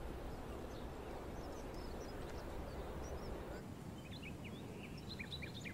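Outdoor ambience with small birds chirping over a steady low hiss; the chirps come thicker about four seconds in, as the low rumble drops away.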